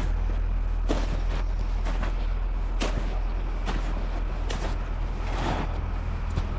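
Footsteps crunching through deep snow, a step every half second to a second, over a steady low rumble.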